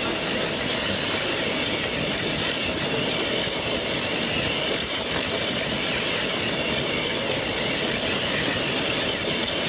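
RC truck motor and drivetrain running, a steady whir and rumble with no breaks.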